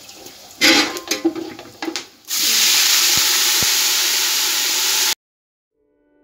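Loud, steady sizzling and spitting as a wet blended onion-tomato paste is poured into hot oil in a large steel pot, cutting off suddenly about five seconds in. A few knocks and clatters come first.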